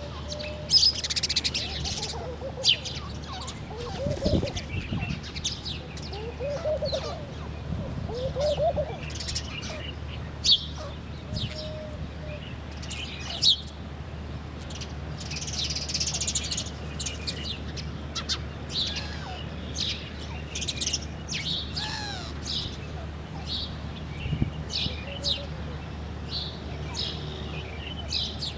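Several birds calling, with many short, high chirps and trills. A few lower, slurred calls come in the first third. A steady low hum runs underneath.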